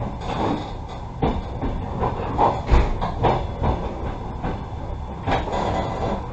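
Passenger carriage's wheels rumbling and clattering over the rails, heard from inside the car, with irregular sharp knocks, the loudest a little under three seconds in, as the train pulls into the station.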